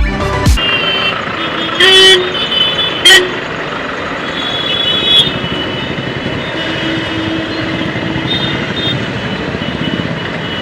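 Busy road traffic with vehicle horns honking several times in the first five seconds, two of them short and loud, over a steady noise of engines and wind. Background music with a thumping beat stops about half a second in.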